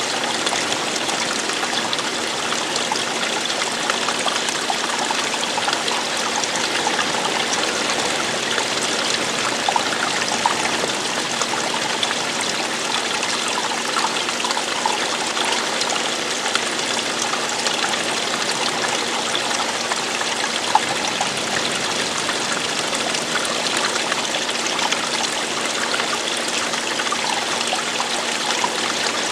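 Running water of a stream flowing and splashing over stones, a steady rush with small scattered droplet splashes.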